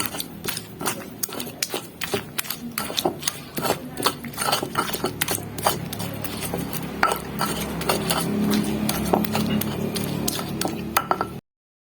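Hand pestle (ulekan) pounding and grinding chilies, shallots, tomato and shrimp paste in a cobek mortar to make sambal terasi: quick, irregular knocks and scrapes, stopping abruptly just before the end.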